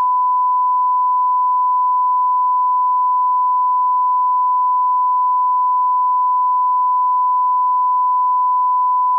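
Steady electronic test tone: one pure, unchanging pitch held without a break.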